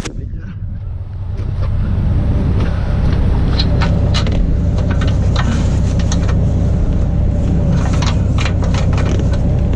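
Heavy diesel truck engine idling with a steady low rumble, softer for the first second or so, with scattered sharp clicks and knocks over it.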